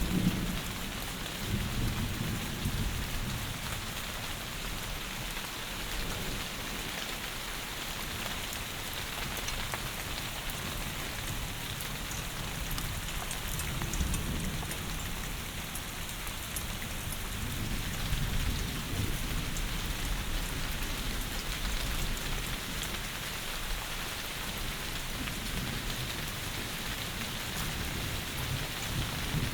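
Heavy rain falling steadily, an even hiss, with low rolls of thunder swelling at the start, around the middle and again near the end.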